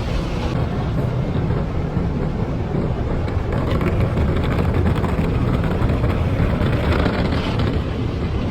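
Automatic car wash running over the car, heard from inside the cabin: a loud, steady rushing noise from the wash equipment.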